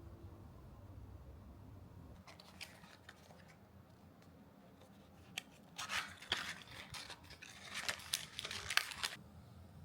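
Handling sounds: a few sharp clicks, then a dense run of crackles and snips from about six to nine seconds in, as of something being crumpled, torn or cut by hand.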